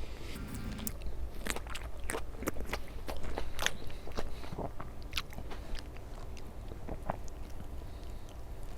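A person chewing and biting food close to the microphone, with irregular wet clicks and crunches from the mouth.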